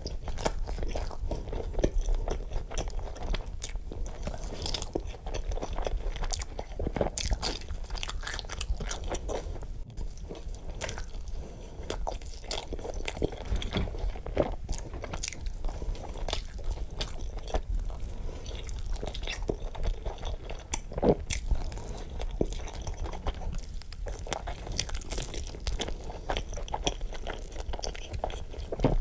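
Close-miked chewing and crunching as a man eats big bites of cheeseburger, moving on to a slice of pizza about halfway through, with frequent sharp crunches.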